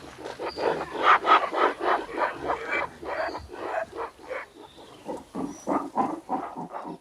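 A rapid run of animal calls, about five a second, loudest about a second in.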